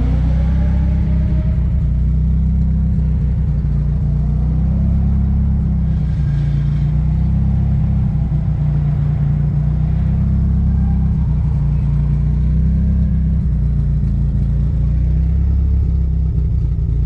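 Car engine idling steadily while it warms up, heard from inside the cabin, with a slight swell in its note every few seconds.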